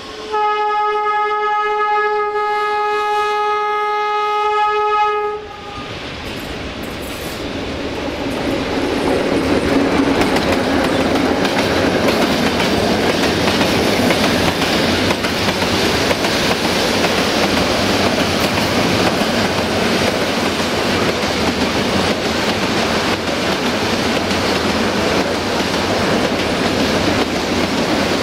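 Locomotive horn sounding one long, steady blast of about five seconds, then a freight train of tank wagons passing close, its wheels rumbling and clicking over the rail joints, getting louder as it comes.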